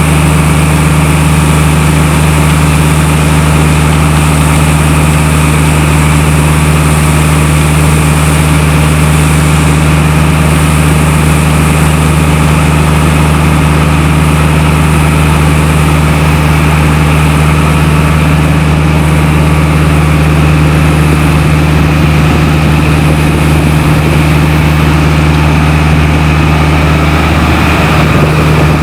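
Diesel engine idling steadily and loud, at an even speed with no revving.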